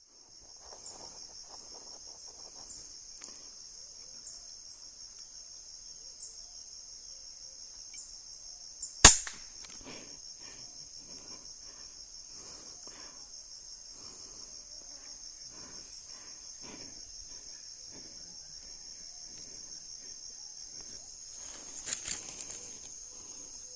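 Steady high-pitched insect drone, with a single sharp crack of a Sharp Innova pump air rifle firing about nine seconds in. A few fainter clicks come near the end.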